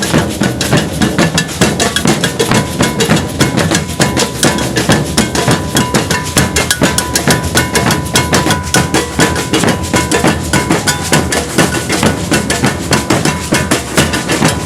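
Maracatu de baque virado percussion ensemble playing a dense, steady rhythm on drums and bell.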